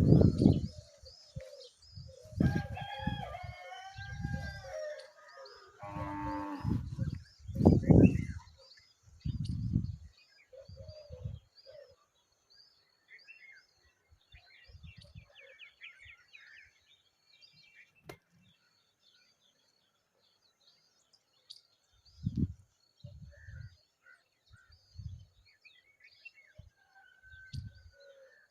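Small birds chirping in quick, repeated high notes. Over the first ten seconds there are heavy low thumps, and a louder drawn-out farmyard animal call comes a few seconds in.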